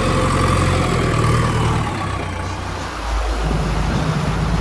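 Backhoe loader's diesel engine running. Its note dips about two seconds in, then picks up again with a deeper rumble.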